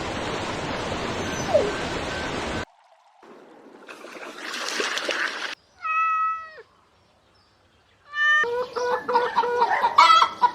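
A string of short animal-sound clips, including a cat meowing once about six seconds in, followed by a run of rapid, choppy animal calls.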